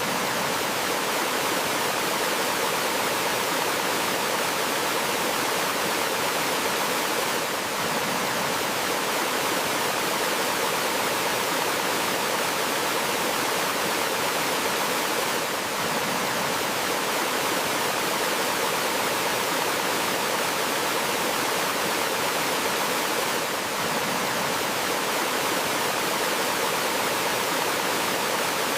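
Water of a small forest waterfall and stream rushing steadily over rocks, an even hiss with no birdsong standing out. There is a slight brief dip in level about every eight seconds.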